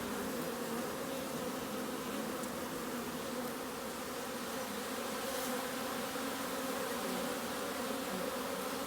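Loud, steady mass buzzing of honeybees flying in large numbers around their hives, the frantic hum of colonies out in full force after being kept inside all day by rain.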